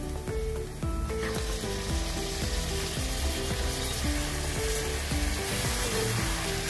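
Hot oil sizzling in an aluminium pressure cooker as onions fry, the sizzle growing louder about a second in as turmeric-marinated mutton pieces go into the pan and are stirred. Background music with a melodic line and bass plays alongside.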